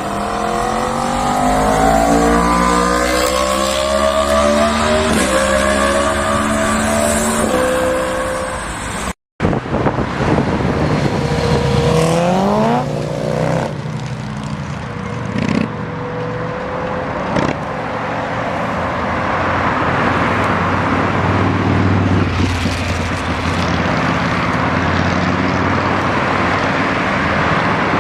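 Inline-four sportbike accelerating hard through the gears, its engine note climbing and dropping back at each upshift. After a cut, another run revs up quickly and then holds at speed under a steady rushing noise.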